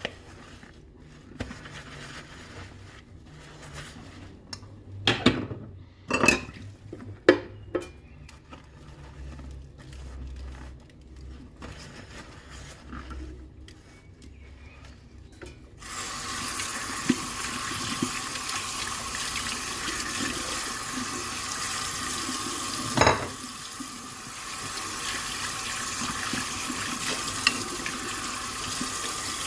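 Dishes knocking and clinking in a kitchen sink, with several louder clatters about five to seven seconds in. About halfway through, the tap is turned on and water runs steadily into the sink, with one more knock of a dish partway through.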